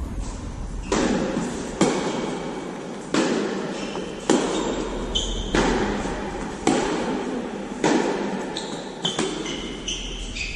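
Tennis balls being struck and bouncing during play, a sharp echoing pop about every second. Short high-pitched squeaks come in about halfway through and again near the end.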